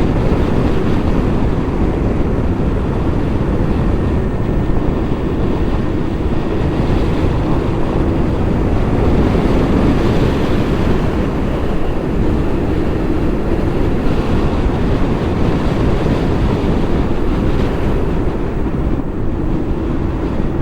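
Steady rush of wind on the microphone as an electric motorcycle coasts downhill at speed.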